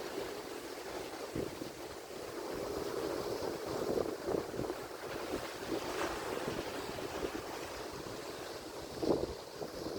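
Ocean surf: waves washing and breaking on the shore, a steady rushing with many small splashes through it.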